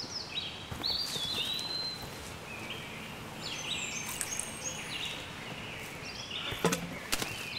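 Several songbirds singing, short whistled phrases overlapping one another, with a few footsteps on the forest floor near the end.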